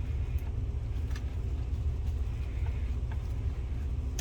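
A few faint, light clicks of a small screw being driven back in with a screwdriver, over a steady low rumble.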